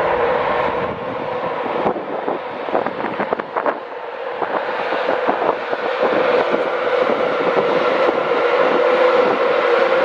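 A train running at a station platform, with a steady pitched engine or motor hum and a quick run of clicks between about two and four seconds in, typical of wheels over rail joints or points; the sound grows louder in the second half.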